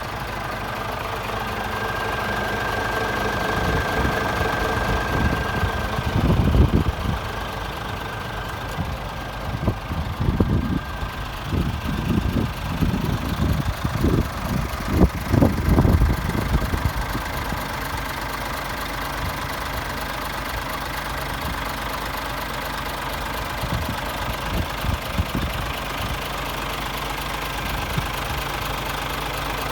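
Scania S500 tractor unit's 13-litre straight-six diesel idling steadily. Irregular low thumps and rumbles come and go for about ten seconds in the middle.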